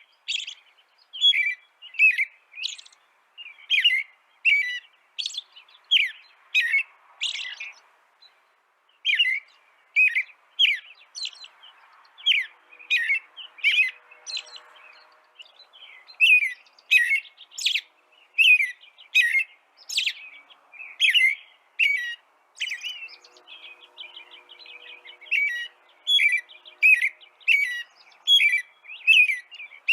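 Small songbirds chirping: a continuous stream of short, high, down-slurred chirps, one or two a second.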